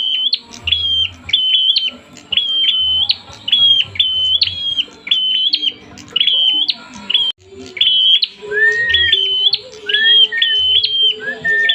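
Prenjak (prinia) calling agitatedly: a fast, unbroken run of sharp, high, repeated chirps, the combative call of an excited bird. From about eight seconds in, a lower slurred note joins three times.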